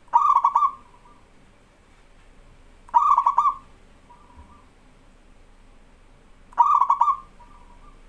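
Zebra dove (perkutut) in full song: three short cooing phrases about three and a half seconds apart, each a quick run of notes followed by a fainter drawn-out note.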